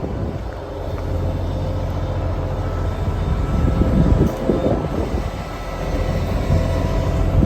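Case IH 9170 four-wheel-drive tractor's diesel engine running with a steady low drone, with a few brief louder rough surges partway through.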